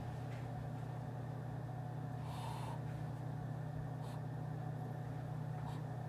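Office room tone: a steady low hum, with a brief rustle about two and a half seconds in and two faint clicks later on.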